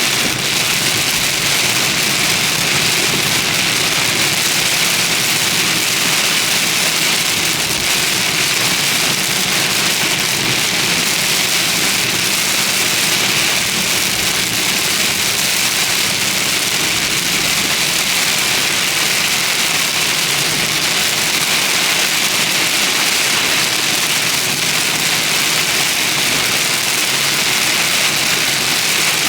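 Heavy thunderstorm rain hissing steadily, with a car's engine running underneath.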